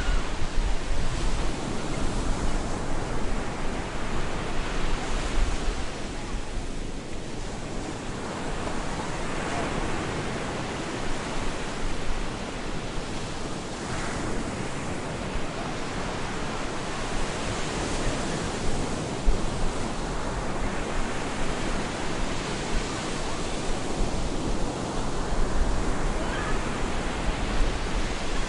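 Surf breaking on a beach in stormy weather: a continuous wash of waves that swells and eases every few seconds, with gusts of low wind rumble on the microphone at the start and near the end.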